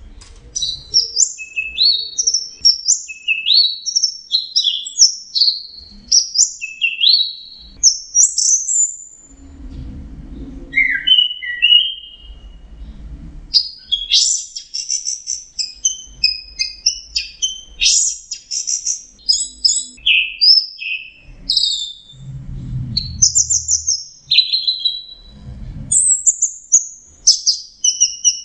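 Orange-headed thrush singing a long, near-continuous run of quick, varied whistled phrases and slurred notes. This is the absorbed, steady song that bird keepers call 'teler'.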